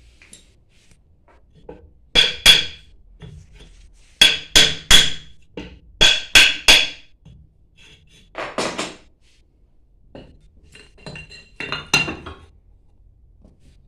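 Hammer striking metal pump parts: eight ringing blows in groups of two, three and three, then a brief scraping rattle and lighter metal clinks near the end.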